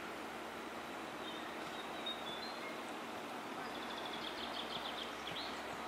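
Steady outdoor background noise with small birds chirping; a rapid run of repeated high notes comes in a little under four seconds in.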